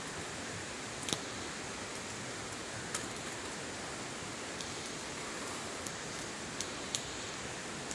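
Campfire crackling: a steady hiss with six or so sharp, scattered pops.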